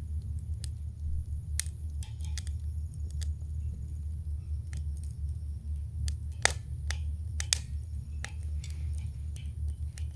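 Campfire wood burning and crackling, with irregular sharp pops, the loudest about six and a half seconds in, over a steady low rumble.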